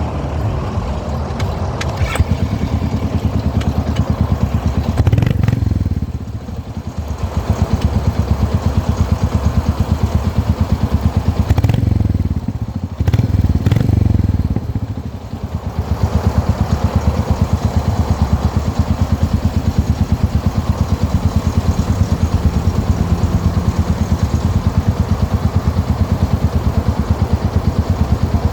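Motorcycle engine idling with an even, pulsing beat, revved briefly three times, about five seconds in, around twelve seconds and again just after.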